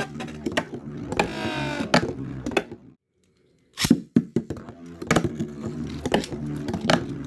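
Metal Fight Beyblades (Storm Pegasis and Dark Wolf) spinning and clashing in a plastic stadium: repeated sharp clacks of the tops striking each other and the stadium wall, with a short rising whir about a second in. The sound cuts out completely for under a second about three seconds in, then the clacking resumes.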